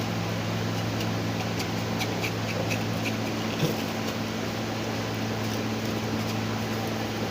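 Steady low machine hum over an even hiss, with a few faint short high chirps about two to three seconds in and a small click a little later.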